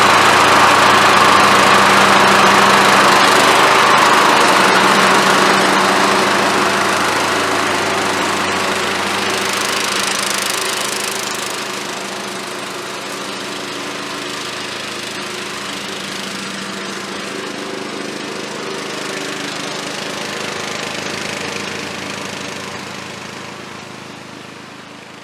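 Old Murray key-start lawn mower engine running steadily, now that a new flywheel key and starter gear are fitted. It is loud at first, drops in level about halfway through and fades near the end.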